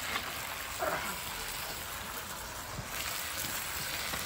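Salmon pieces sizzling in hot oil in a cast-iron Dutch oven over a campfire, a steady hiss.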